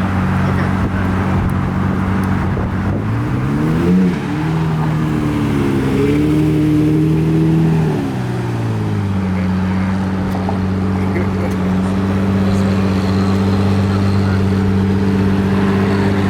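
A car engine idling, revved up about three seconds in and held at higher revs for a few seconds, then dropping back to a steady idle around nine seconds in.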